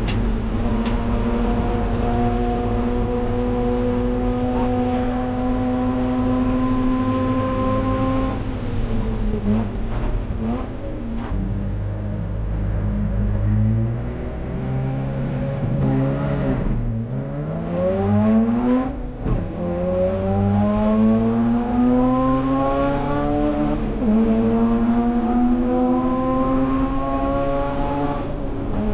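Mazda RX-8's two-rotor rotary engine running hard on track. The revs hold high and climb slowly, then fall about eight seconds in. Several quick climbs and gear changes follow, then two long rising pulls with an upshift between them.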